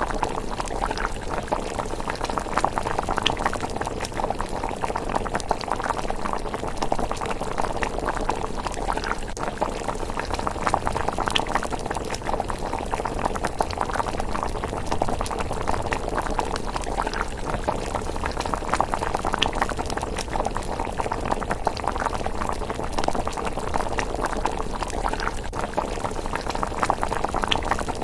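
Miso rice porridge simmering steadily in a pot, bubbling with a dense stream of small pops.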